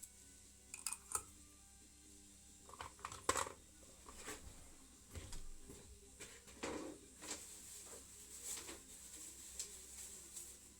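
Faint, irregular clinks and knocks of metal tools and engine parts being handled during work on a motorcycle engine, with faint background music.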